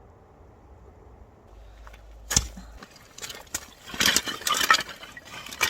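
Quiet low background for about two seconds, then a sharp knock and a run of clattering and clicking as hard camping gear or firewood is handled and set down.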